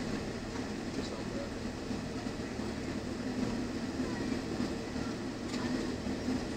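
Steady rumble inside the cabin of an Air India Boeing airliner: engine and airframe noise at an even level, with a few faint ticks.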